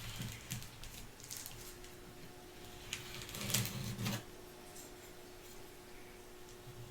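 Light handling noises: scattered soft clicks and rustles, with a louder rustle about three seconds in.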